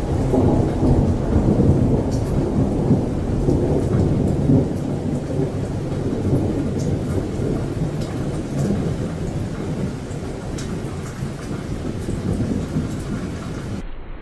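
Thunder rolling in a long low rumble that slowly fades, with rain falling steadily underneath and occasional drops ticking close by.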